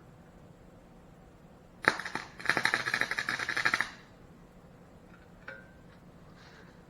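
Gasless flux-core wire welder with 0.035 wire, turned down to its lowest wire speed and heat, striking an arc on thin sheet steel: a short crackle about two seconds in, then about a second and a half of rapid spitting crackle before it stops. This bead does not blow through the metal but gets poor penetration.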